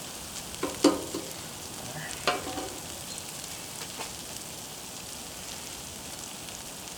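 Food sizzling steadily on a Blackstone flat-top steel griddle, with a few sharp clinks of a utensil against the griddle, the loudest about a second in and another near two and a half seconds.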